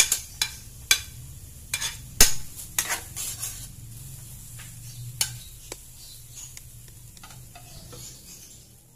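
Chopped onion and garlic sizzling in oil in a stainless steel pot while a metal spatula stirs them, knocking and scraping against the pot. The knocks come thickest in the first few seconds, the loudest about two seconds in, then thin out and leave the steady sizzle.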